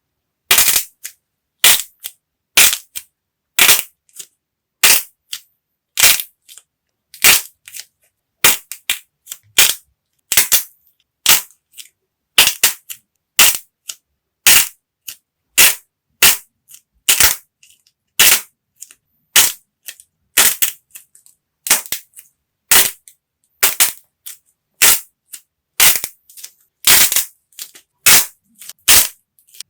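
Dried modelling clay being cracked and crushed, a long run of short, sharp crunchy cracks coming irregularly about once or twice a second.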